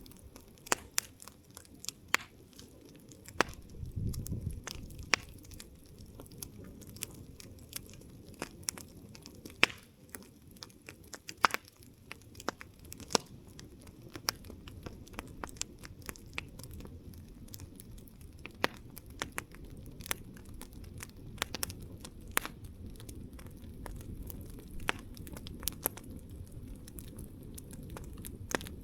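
Wood campfire crackling: irregular sharp pops and snaps, several a second at times, over a low, steady rush of the burning fire.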